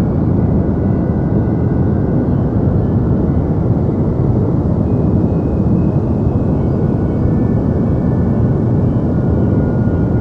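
Steady deep noise for sleep: an even, unchanging hiss weighted toward the low end, more of a rumble than a bright white hiss.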